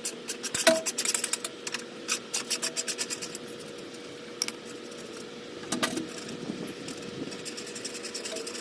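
Ratchet wrench with a 10mm socket clicking in quick runs as screws are backed out, with a faint steady hum underneath.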